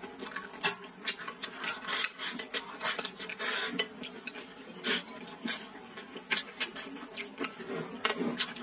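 Close-up eating sounds: chewing a chicken, potato and tofu-skin stew with rice, with irregular wet mouth clicks several a second and chopsticks knocking against the bowl.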